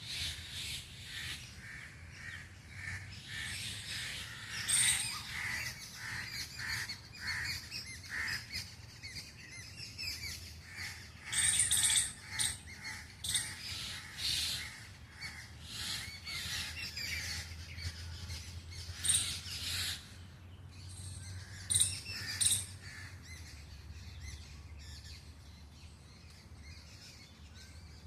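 Several birds calling and chirping, with short repeated calls in clusters and a few louder sharp calls scattered through, over a faint low hum.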